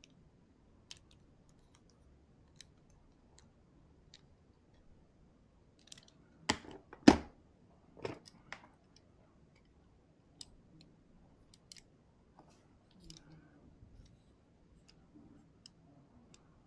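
Light clicks and clacks of Hot Wheels die-cast toy cars and plastic track pieces being handled, with a quick run of louder knocks about six to eight seconds in.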